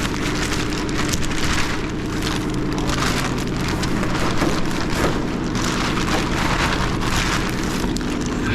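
Rain falling on a car, an even hiss of drops with a low steady hum underneath.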